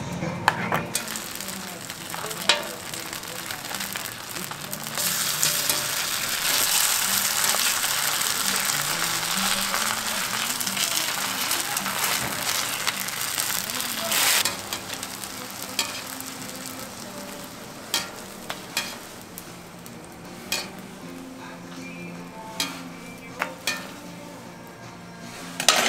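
Food frying in hot oil, a steady sizzle that swells loud about five seconds in and eases off near the middle, with a few sharp clicks and knocks of utensils in the second half.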